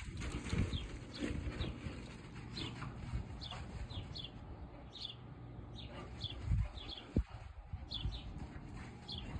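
A bird calling over and over with short, high, falling chirps, over a low rumble. Two dull thumps come about two-thirds of the way through.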